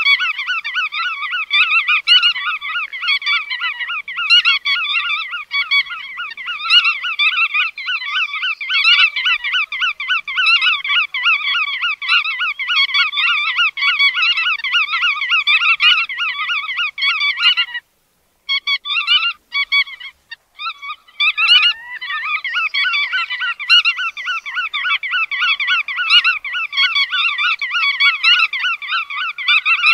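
A flock of bar-tailed godwits calling continuously in rapid, overlapping calls. The calling breaks off about 18 seconds in, with only a few scattered calls, then resumes about 22 seconds in.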